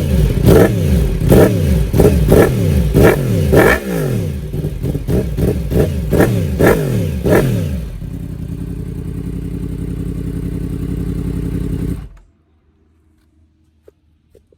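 Yamaha R1 inline-four sportbike engine blipped again and again through a new aftermarket exhaust with the baffle removed, each rev rising and falling quickly, about a dozen times. It then settles to a steady idle for about four seconds and is switched off near the end.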